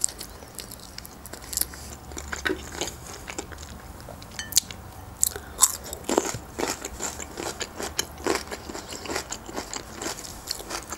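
A person chewing food close to the microphone: irregular wet mouth clicks and crunchy bites, several a second.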